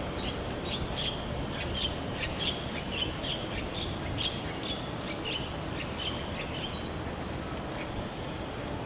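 Birds chirping: many short, quick notes repeated throughout, over a steady background hum of outdoor noise.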